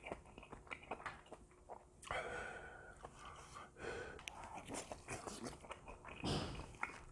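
Close-miked mouth sounds of a person eating grilled beef offal (gopchang): small wet clicks and smacks of chewing, with a couple of audible breaths, one about two seconds in and a louder one just after six seconds.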